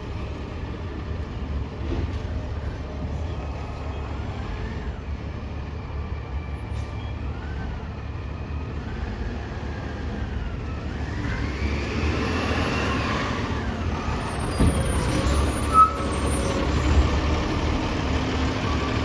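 Garbage truck engine running with a steady low rumble, revving with a rising whine about two-thirds of the way through, then a short sharp burst of sound near the end.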